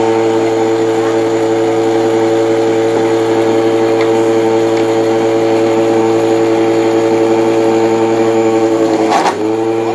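Homemade drilling machine's 6,000 RPM 24-volt DC motor running with a steady whine. About nine seconds in, its pitch sags briefly with a knock, then picks back up.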